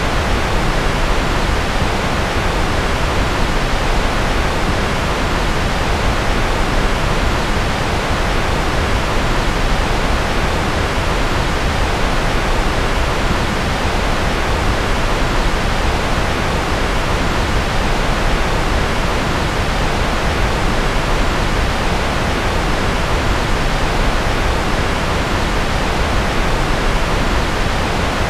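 Steady generated noise track sold as white noise: a constant, unchanging rushing hiss with no events, fuller in the low end than a pure hiss, like pink noise.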